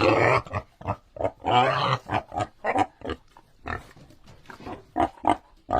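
Domestic pig grunting: a run of short grunts, with two longer calls in the first two seconds.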